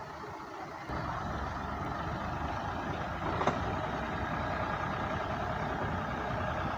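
Old Ford tractor's engine running hard under load while hauling a loaded trolley up a steep ramp. It gets louder about a second in, and a short sharp knock comes midway.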